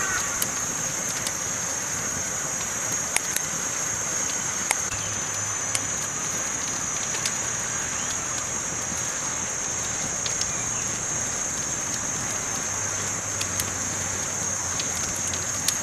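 Campfire burning: a steady hiss with sharp crackling pops scattered irregularly, about a dozen across the stretch.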